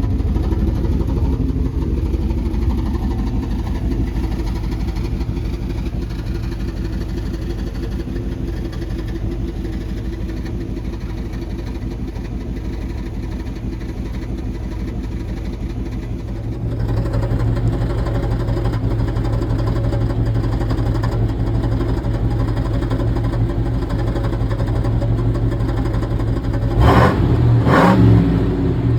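Car engine and freshly worked-on exhaust droning steadily while driving. About two-thirds of the way through it gets louder under throttle, and near the end there are a few short hard revs.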